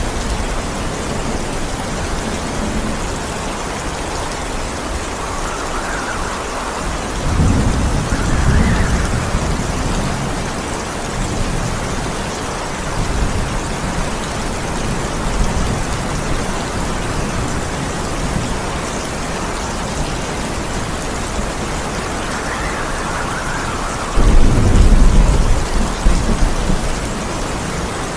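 Steady heavy rain falling, with thunder rumbling twice: a low rolling rumble about seven seconds in, and a louder clap that starts suddenly near the end and rolls on for a few seconds.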